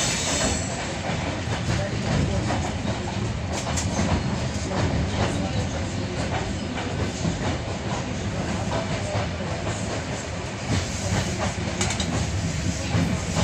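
Train running along the track: a steady low rumble with the wheels clicking over rail joints.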